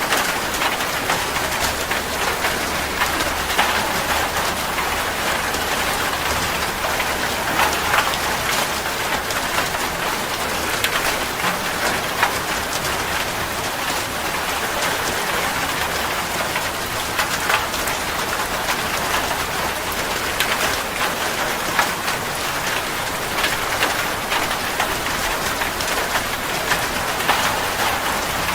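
Steady heavy rain falling on a surface, a dense even hiss full of individual drop impacts.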